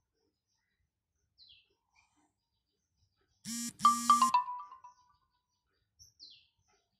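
A few faint bird chirps, each a short high call falling in pitch, several seconds apart. About halfway through, a loud, brief buzzing tone comes in two pulses, followed by ringing higher notes that fade within about a second.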